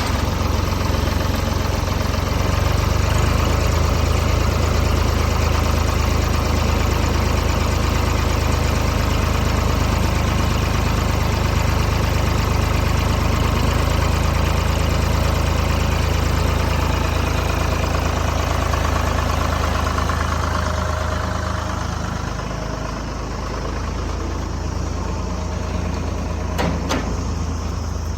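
Wood chipper machine running steadily with a deep hum under a broad machine noise, easing slightly about two-thirds of the way through; a couple of sharp knocks near the end.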